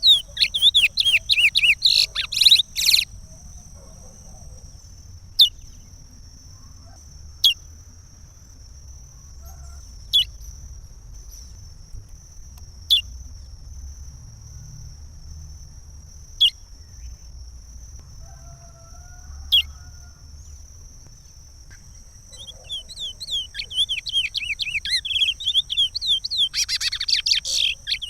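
Curió (chestnut-bellied seed-finch) singing the Pará regional song, a run of quick whistled notes. After about three seconds it breaks off to single sharp notes every two to three seconds, then takes up the full song again for the last few seconds.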